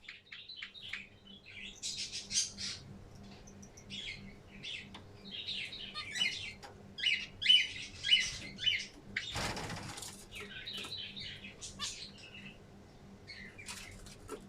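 Zebra finches chirping and calling with many short, quick notes, with a brief burst of wing flapping a little after nine seconds in.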